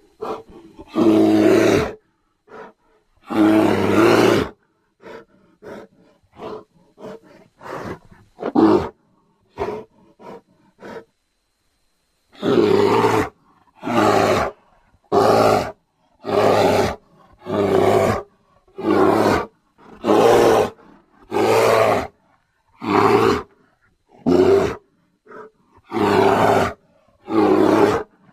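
Megatherium (giant ground sloth) creature sound effects: two long roars, then a string of short grunts, a brief pause, and a run of about a dozen roars of about a second each in quick succession.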